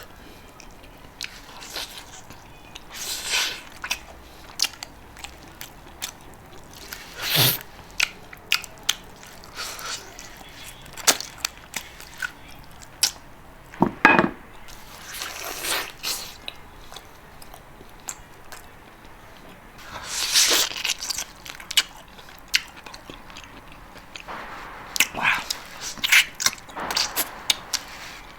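Close-up eating: chewing and gnawing on braised pig trotters, with scattered sharp clicks and short smacking bursts at irregular moments.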